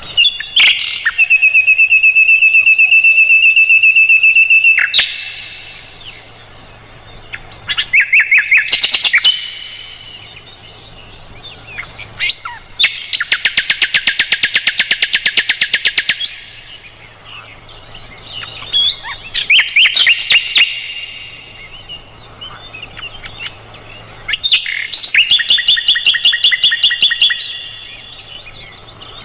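Sikatan londo, a small flycatcher, singing: about five loud phrases of rapid high trills and chatter with short pauses between them, the first a held note lasting several seconds.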